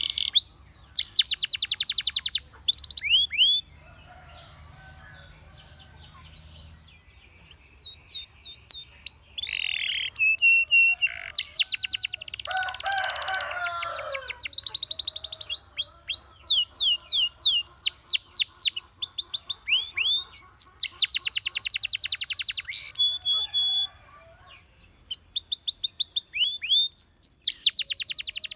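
Domestic canary singing: fast buzzing trills and runs of quickly repeated rising and falling whistled notes. It goes quiet for about three seconds near the start and briefly again near the end.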